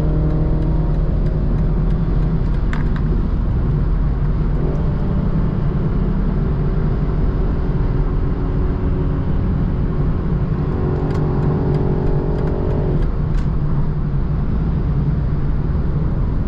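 Tuned BMW 330i's turbocharged four-cylinder engine running at cruise with steady road noise, its engine tone shifting in pitch about four seconds in and dropping away near the end.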